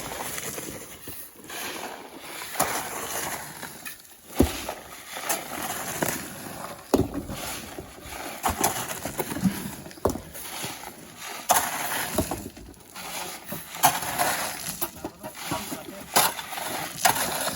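Shovels working wet sand by hand, with irregular knocks and scrapes every second or two as loads are dug and thrown into a truck.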